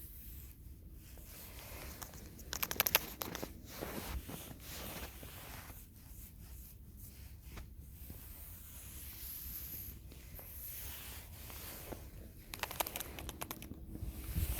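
Rustling, crinkling handling noise, with two short bursts of rapid crackling clicks, one about three seconds in and one near the end.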